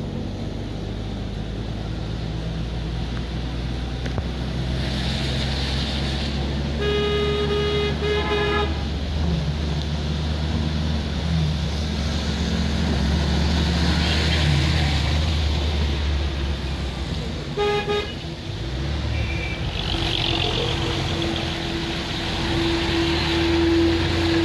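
Traffic on a wet road heard from inside a moving car: a steady low engine hum, with vehicles hissing past. A vehicle horn sounds for about two seconds, starting about seven seconds in, and gives a short toot later; a steady tone sets in near the end.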